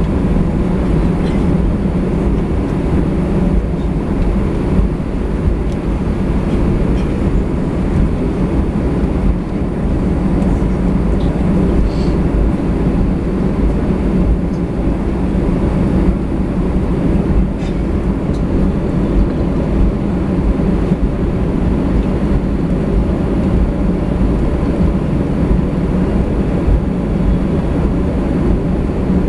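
Airbus A320 jet engines and airflow heard from inside the passenger cabin as a loud, steady rumble, unchanging throughout.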